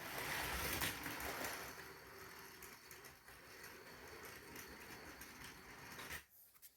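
Trix HO-scale model locomotive running along the track, its motor and wheels making a steady whirring rattle. It starts loudest and cuts off suddenly about six seconds in.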